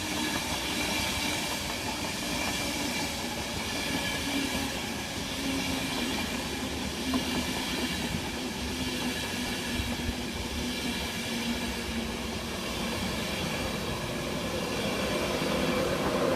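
InterCity 225 electric train (driving van trailer leading) pulling into the platform: rumble of wheels on the rails with a steady electric whine that slowly drops in pitch as the train slows.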